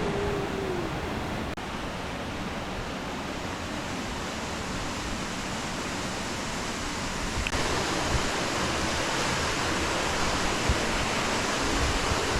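Steady rush of flowing creek water, which steps up abruptly and grows louder about seven and a half seconds in.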